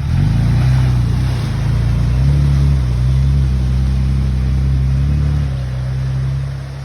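Four-wheel-drive Landcruiser engine revving hard under load while driving through a muddy bog hole. The pitch steps up once or twice, holds steady, then eases off near the end.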